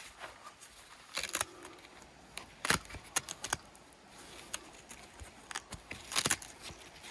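Irregular clicks, knocks and rustles of things being handled, loudest a little under 3 s in and again just after 6 s.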